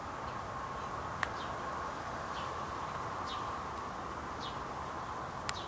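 A bird repeating a short falling chirp about once a second over a steady background hiss, with two sharp clicks, one about a second in and one near the end.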